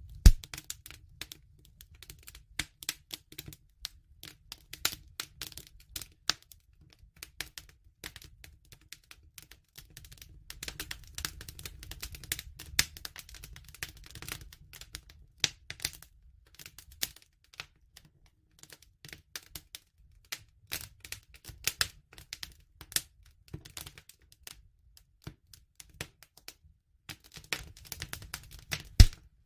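Wood fire crackling: irregular sharp snaps and pops over a low steady rumble, with a loud pop just after the start and another near the end.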